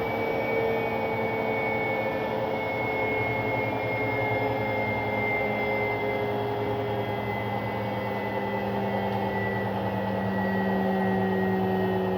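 Arctic washing machine's drum motor running with a whine that slowly falls in pitch as the drum slows, over a steady low hum. This is the bad noise the machine makes in service mode during a suds lock.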